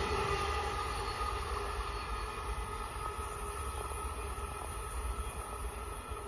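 Amtrak passenger train rolling away down the line. Its rumble dies down over the first half-second, then carries on low and steady as the train draws into the distance.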